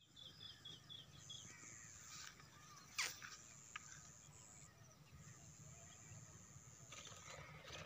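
Faint open-field ambience. A bird calls a quick series of about six short high notes at the start, a high steady buzz comes and goes, and a single brief sharp sound stands out about three seconds in.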